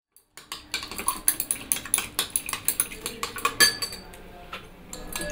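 Glass stirring rod clinking quickly against the inside of a glass beaker as a liquid is stirred: rapid sharp clinks, several a second, each with a short glassy ring, starting about half a second in.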